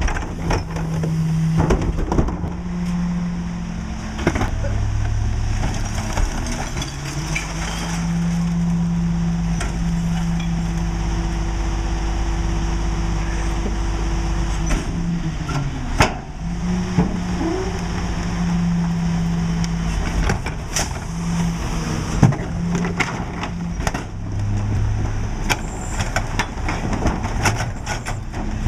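Diesel engine of a Mack LE garbage truck with a McNeilus rear-load body running, its note stepping up and down in speed several times. Scattered metallic clanks and knocks sound over it.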